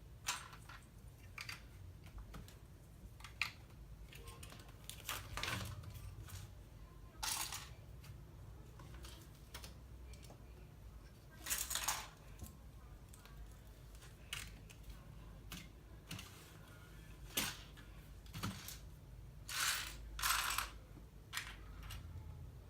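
Plastic LEGO pieces being handled and pressed together: irregular sharp clicks with several short clattering rattles.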